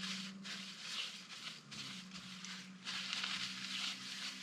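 Shop rag rubbing and wiping oil off the top of a Harley Evolution cylinder, in uneven strokes, over a steady low hum.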